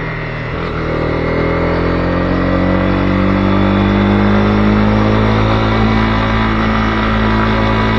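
Honda CB250R's single-cylinder engine under way: the pitch dips right at the start, then climbs steadily over the next few seconds as the bike accelerates, and holds steady after that, with a rush of wind and road noise underneath.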